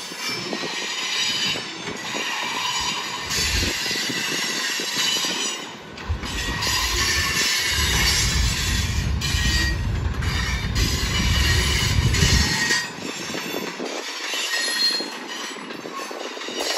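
Freight cars rolling past at speed, steel wheels rumbling and clattering on the rails with a thin high wheel squeal at times. The deep rumble drops away near the end, leaving the lighter clatter.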